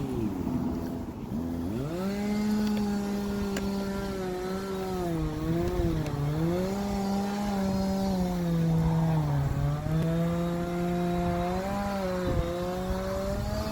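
A small engine running steadily, its pitch dipping and recovering every few seconds as if under changing load.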